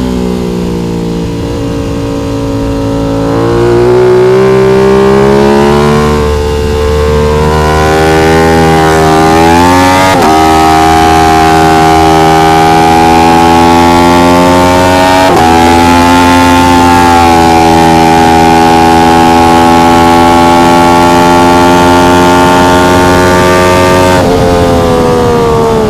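Aprilia RS660 Trofeo's parallel-twin engine running hard on track, heard onboard. Its pitch sinks at first, then climbs with two sharp brief dips about ten and fifteen seconds in, holds high and nearly level for a long stretch, and falls away near the end.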